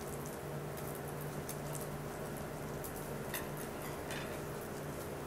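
A man quietly chewing a bite of grilled eel, with a few faint mouth clicks, over a steady low room hum.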